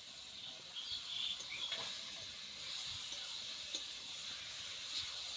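Gourd and egg curry frying in a kadai over a wood fire, a steady hiss of sizzling, with a few light clinks and scrapes of the ladle as it is stirred.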